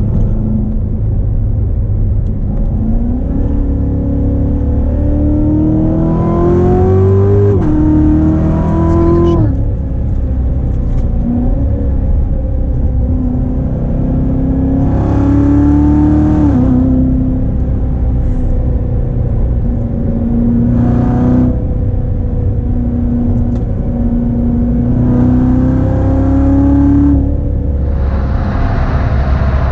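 Supercharged 6.2-litre V8 of a 2016 Corvette Z06 on the move, accelerating several times: the engine note climbs and then drops sharply at each upshift, with steadier cruising between the pulls.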